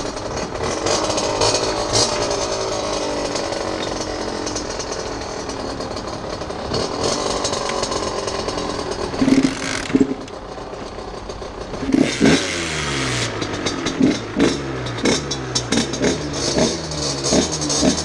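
Small two-stroke dirt bike engines running with a rasping note, their pitch rising and falling. About twelve seconds in, one engine is revved in short, repeated throttle blips, roughly two a second, each one dropping back toward idle.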